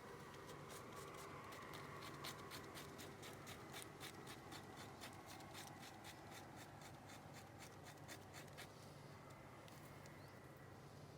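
Faint, rapid, irregular light clicks and crackles, several a second, over a quiet steady background; they stop about eight and a half seconds in.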